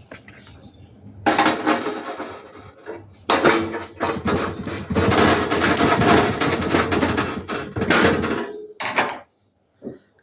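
Metal heater parts clattering and scraping as they are handled and fitted back together, in a dense rattling stretch that stops shortly before the end with one brief rattle after.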